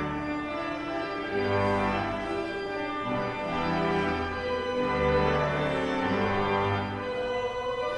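Organ playing slow sustained chords over held bass notes that change about once a second.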